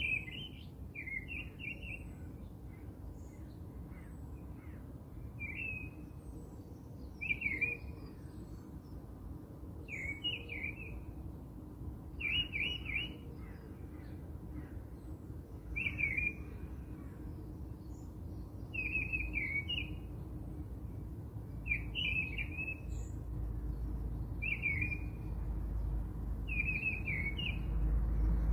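A small songbird chirping: a short phrase of quick, high chirps, repeated every two to three seconds.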